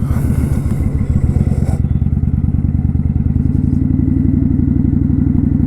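Kawasaki Vulcan 900 Custom's V-twin engine running steadily while riding, an even, pulsing exhaust note.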